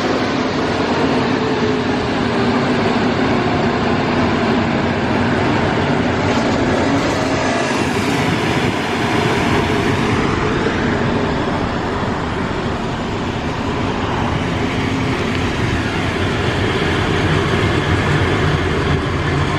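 Superior car wash dryer blowers running, a loud steady rush of air with faint fan tones in it.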